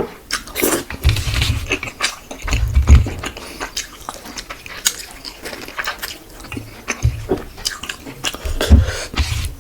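Close-up chewing and biting of a person eating fish, rice and curry: wet mouth smacks and clicks, with a few low thuds.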